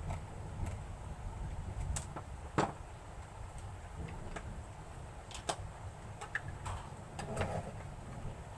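Scattered small clicks and knocks of a hair dryer's plastic parts being handled during disassembly, the loudest about two and a half seconds in, over a low steady rumble. The dryer itself is not running.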